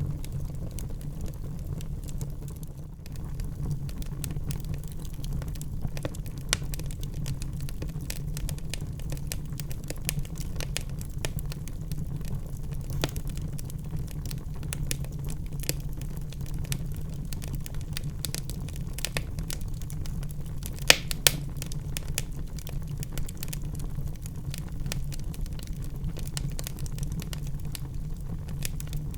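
Wood fire burning in a fireplace: a steady low rumble under constant small crackles, with two sharp louder pops about 21 seconds in.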